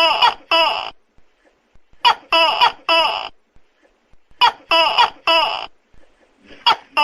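Tokay gecko calling loudly, its "to-kek" notes coming in bursts of three or four, one burst about every two and a half seconds.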